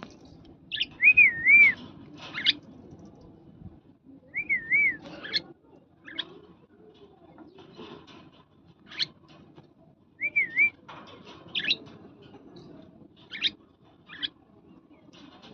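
Pet parrot whistling and chirping: three short warbling whistles, about a second in, near the fifth second and about ten seconds in, with brief sharp chirps between them.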